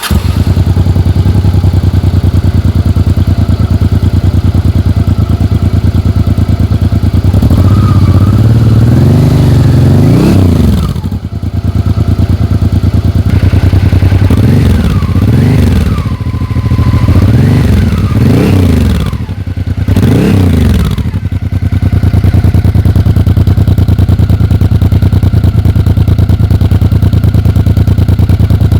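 Honda XRV750 Africa Twin's V-twin engine idling steadily, then revved: one long rise and fall of the revs, followed by a run of quick throttle blips, before settling back to idle.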